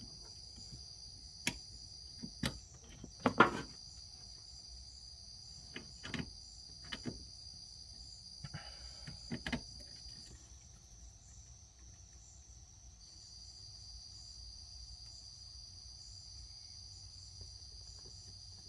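Crickets chirring steadily in a high pitch, falling silent for a couple of seconds midway and then starting again. Scattered sharp clicks and knocks from hands working with small parts come through in the first half.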